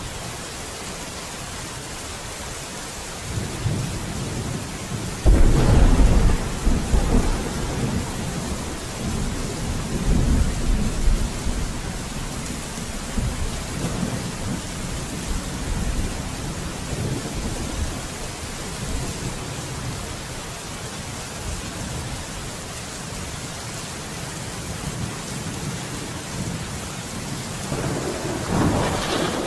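Steady rain with thunder. A rumble builds about 3 s in, then a sharp, loud clap about 5 s in rolls on for several seconds, and another rumble swells near the end.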